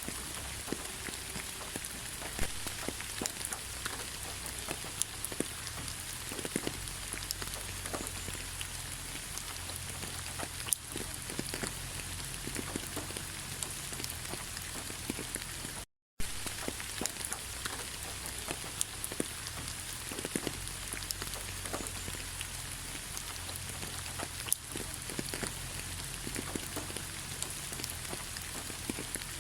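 Steady rain falling, with many separate drops ticking. The sound cuts out for an instant about halfway through.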